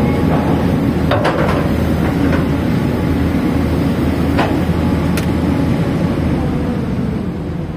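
Caterpillar 320D excavator's diesel engine running steadily, now that its won't-crank fault is fixed, with a few sharp knocks now and then.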